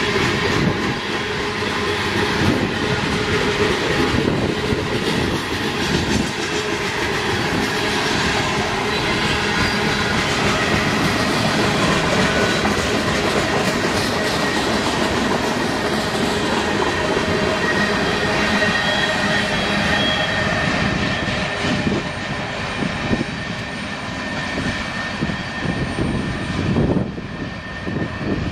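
Freight cars (gondolas, covered steel-coil cars and tank cars) rolling past on jointed track as the train slowly gathers speed. It is a steady rumble of wheels on rail, with rapid clicking and clanking over the rail joints.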